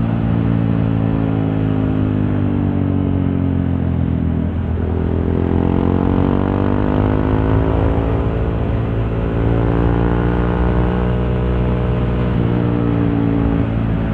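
Honda CRF150L's single-cylinder four-stroke engine running through a Norifumi Torc aftermarket exhaust while riding, heard from inside the rider's helmet. The revs dip about four seconds in, climb steadily for a few seconds, and dip again near the end.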